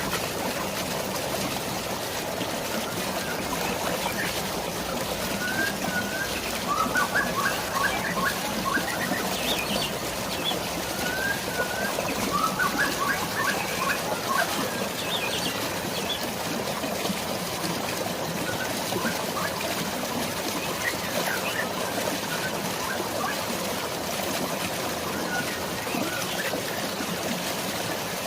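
Steady hiss of rain and flowing water, with birds chirping over it in short repeated calls that are busiest in the middle stretch.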